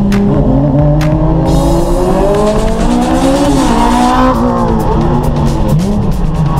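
Nissan 370Z's V6 engine pulling hard through a gear, its pitch climbing and then falling away about four seconds in, with electronic music playing over it.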